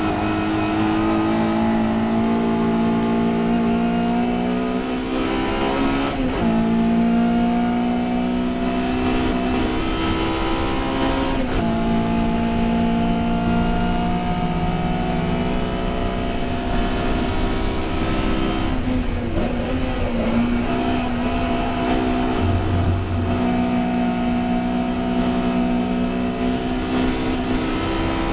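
Touring race car's engine under hard acceleration, its note climbing steadily through the revs and then dropping sharply at each gear change, about every five seconds.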